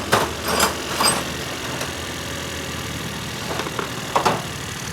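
Suzuki Alto engine idling steadily, its valve tappets freshly adjusted so the ticking is gone. Several sharp knocks sound over it, three in the first second and a quick pair about four seconds in.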